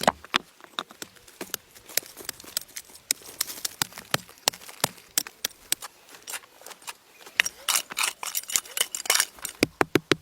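A rapid, irregular series of sharp clicks and knocks, several a second, coming thicker about seven and a half to nine seconds in.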